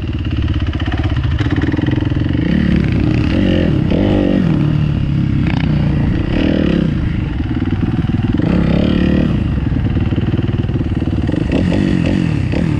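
Motorcycle engine running loud and close, revving up and easing off several times in rising and falling swells of pitch.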